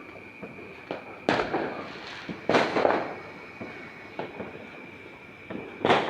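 Fireworks going off: three loud bangs, about a second in, two and a half seconds in and near the end, each with a short echoing tail, and smaller pops in between.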